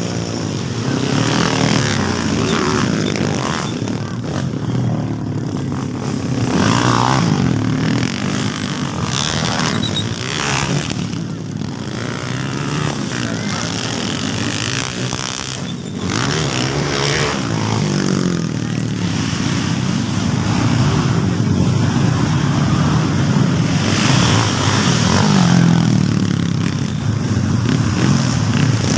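Motocross bikes racing, their engines revving up and falling back as they pass.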